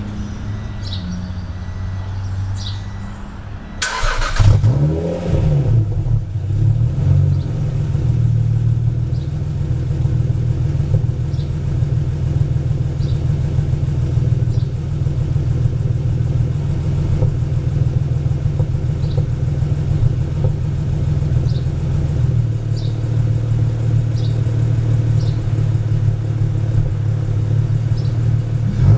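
Turbocharged 3.0-litre V6 of a 1996 Acura NSX fitted with a Garrett GT37R turbo firing up for the first time: after about four seconds of a low steady hum it catches suddenly, flares up in revs and falls back, then settles into a steady idle. Near the end it begins to rev up.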